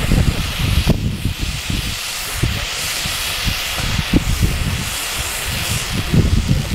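Fireworks hissing steadily, the hiss swelling and fading, over a low uneven rumble.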